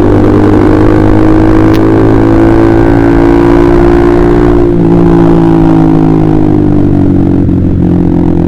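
Honda CBR150R's single-cylinder engine breathing through a KJ Pro Performance aftermarket exhaust while being ridden. The engine note holds steady, changes about halfway through, then sinks slowly in pitch toward the end as the rider eases off.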